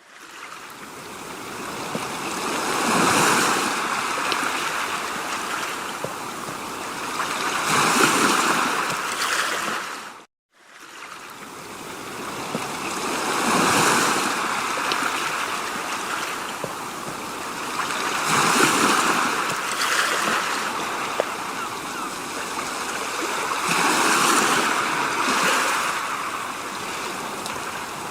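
Rushing water noise that swells and fades about every five seconds, like surf washing in and out, with a brief dropout about ten seconds in.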